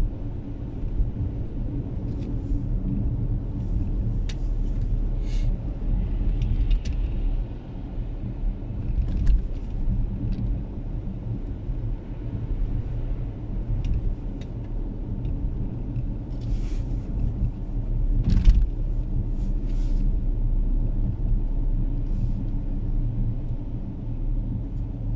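A car driving, with a steady low engine and road rumble and scattered short clicks and knocks.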